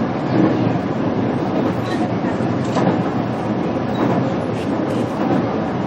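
Running noise of a JR Kyushu BEC819 battery electric train heard from inside the car: a steady rumble of wheels on rail, with a few light clicks over the track.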